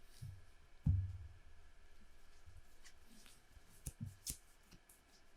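Playing cards being handled on a tabletop: a few soft taps and sharp clicks, with a short low thump about a second in.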